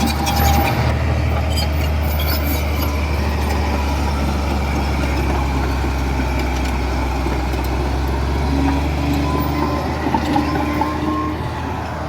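Komatsu D31P crawler bulldozer's diesel engine running steadily, with scattered metallic clanks and a few short squeals in the second half.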